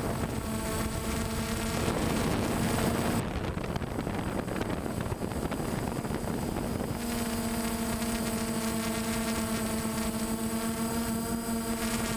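An engine running at a steady pitch with a constant hum. About two seconds in, a rushing noise swamps it for roughly five seconds before the hum comes back clearly.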